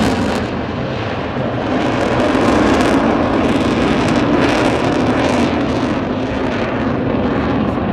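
Military fast jet's engine roar as it pulls into a vertical climb: a loud, steady rushing rumble that eases slightly about a second in and then builds again.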